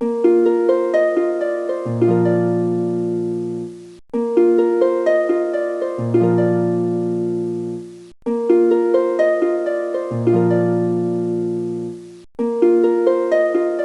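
Harp music: a plucked, quickly rising arpeggio that rings on as a chord, repeated about every four seconds, with a low bass note joining halfway through each phrase.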